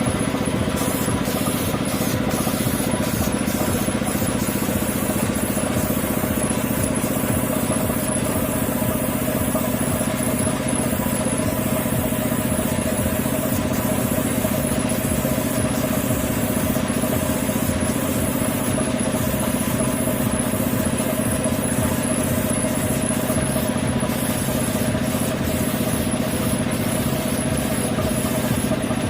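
A motor running steadily, unchanging throughout.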